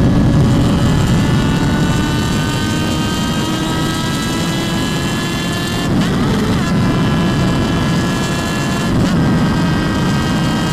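Motorcycle engine pulling under load, its note climbing slowly and dropping at two gear changes, about six and nine seconds in, over heavy low wind rumble.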